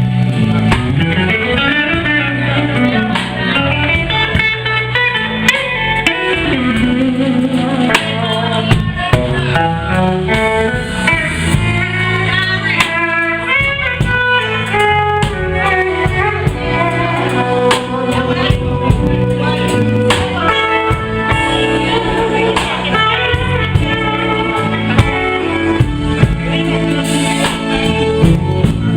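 Live blues/R&B band playing, with a guitar playing runs of notes over a steady beat.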